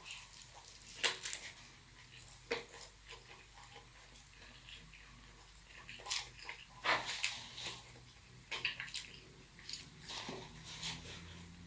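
Close-miked wet chewing and mouth smacks from eating a burrito, in scattered clusters of short, sharp clicks with quieter pauses between.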